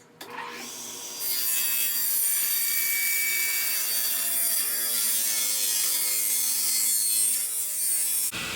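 Table saw ripping a very thin strip off a piece of 2x4 lumber: the spinning blade hums, then about a second in it bites into the wood with a loud, steady cutting noise that cuts off abruptly near the end.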